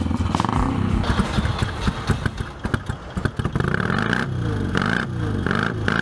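Classic racing motorcycles running at speed on a road circuit, engines revving, with their pitch rising and falling as they pass by.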